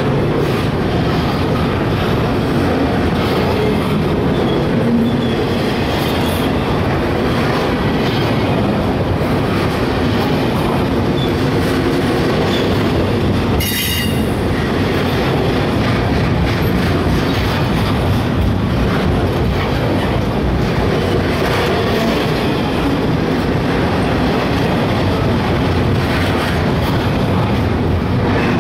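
Double-stack container train of well cars rolling past close by, with a loud, steady rumble of wheels on the rails. A brief high wheel squeal cuts in about halfway through.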